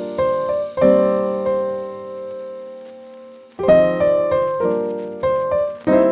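Background piano music: chords and single notes struck and left to ring and fade, with a held pause about midway before the next phrase.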